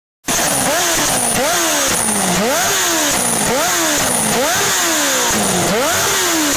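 A motorcycle engine revved hard again and again, its pitch shooting up and sagging back about every 0.7 seconds. It starts abruptly a moment in.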